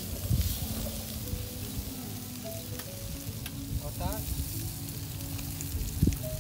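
Sausages and sliced bell peppers and onions sizzling as they fry in a skillet and on a griddle over portable gas camp stoves, with the odd click of tongs. A dull thump about six seconds in is the loudest moment.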